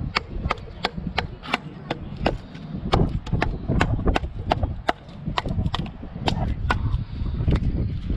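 Rapid wooden knocks, about three a second: a baton striking the spine of a bushcraft knife to split a piece of firewood. Low wind rumble on the microphone underneath.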